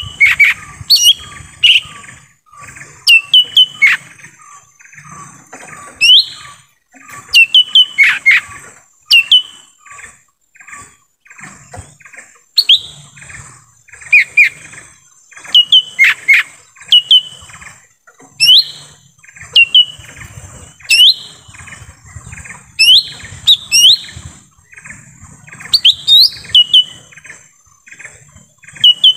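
Lesser green leafbird (cucak ijo mini) singing: phrase after phrase of sharp, sweeping whistled notes mixed with rapid chattering, with short pauses between phrases. A steady high-pitched hiss runs underneath.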